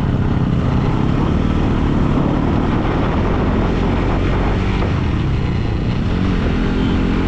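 Motorcycle engine running steadily under way, with a constant rush of wind and road noise.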